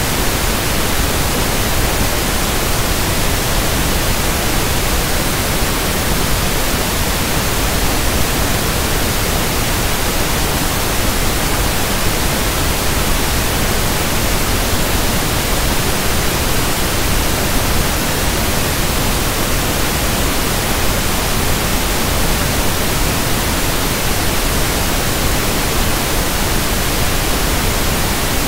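Steady synthesized pink (1/f) noise: an even, unbroken hiss at a constant level, with no tones or events in it.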